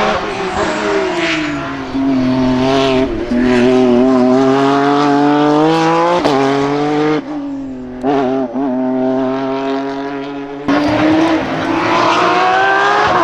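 Hill-climb race car engine at high revs, pitch stepping up and down as it works through the gears; it comes off the throttle about seven seconds in, runs lower and quieter, then comes back on hard near eleven seconds.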